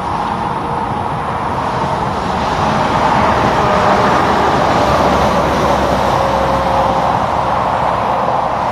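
Heavy truck driving past on a road, engine and tyre noise swelling to its loudest about three to six seconds in, then easing off.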